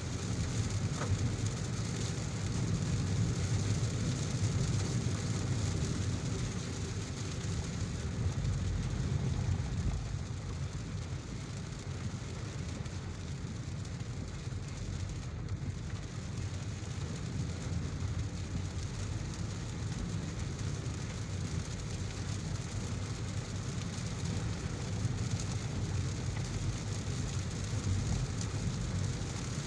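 Heavy rain falling steadily over the constant low rumble of a car driving through it, a little quieter from about ten seconds in.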